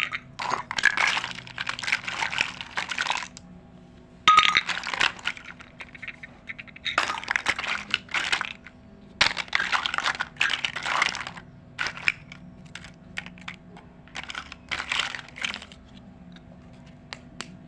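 Small plastic toy kitchen pieces clicking and clattering in repeated bursts as they are handled. A short high tone sounds near the start and again about four seconds in.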